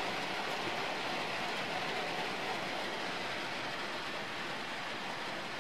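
Heavy rain falling steadily on a metal roof, a dense, even hiss with no let-up.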